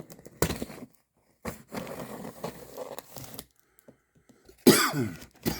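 A man coughs hard, in loud bursts from about two-thirds of the way through, after a stretch of scraping and rustling noise.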